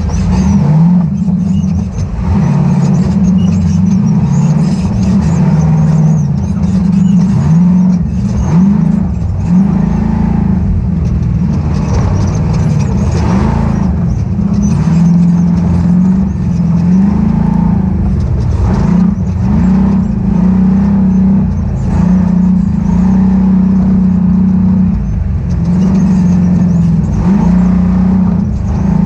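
Ultra4 off-road race car's engine running hard, its pitch rising and falling again and again as the throttle is worked on and off.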